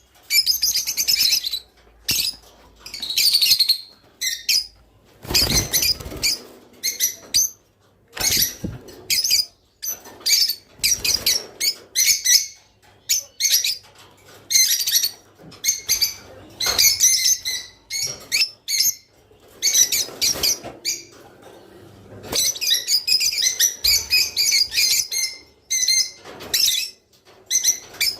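A flock of peach-faced lovebirds chirping and chattering in rapid bursts with short pauses between them, at times overlapping, with a few brief low thumps near the start.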